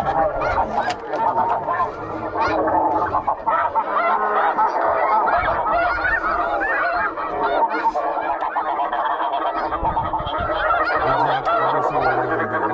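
A large flock of geese calling, many birds honking at once in a dense, continuous chorus.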